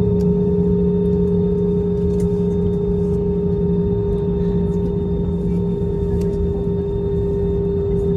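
Steady cabin noise of an Airbus A320: a constant drone with two steady humming tones, one low and one higher, over a low rumble.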